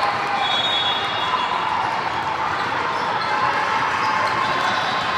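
Indoor basketball game: a steady gym din of the ball bouncing, shoes on the court and voices from players and spectators, echoing in the hall.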